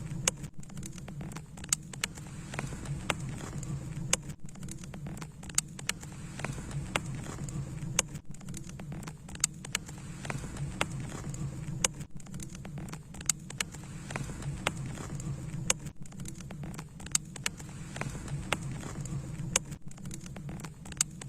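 Wood campfire burning, crackling with irregular sharp pops over a steady low rush.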